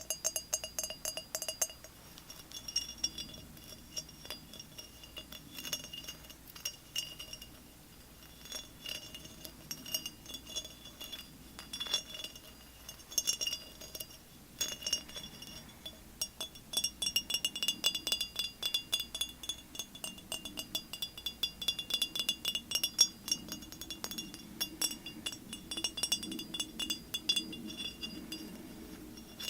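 Rapid light tapping and clinking on a hard object that rings briefly with each tap, like glass. The taps come faster and closer together in the second half.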